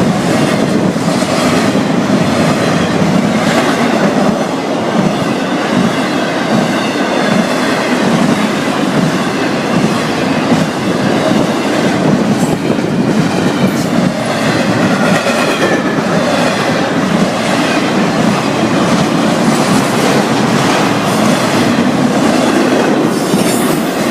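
Long Florida East Coast Railway freight train's cars rolling past close by, steel wheels clattering steadily over the rail, with wavering high-pitched tones from the wheels at times.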